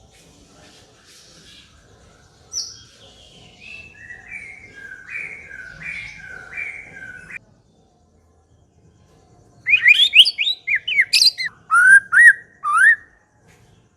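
White-rumped shama (murai batu) singing: a phrase of repeated notes that cuts off suddenly. After a short pause comes a loud, fast run of whistled notes sweeping up and down in pitch.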